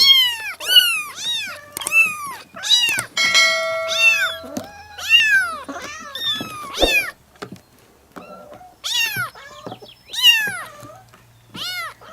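Cat meowing over and over in short, high-pitched mews, with a pause of about a second past the middle. A brief steady tone sounds under the meows around the fourth second.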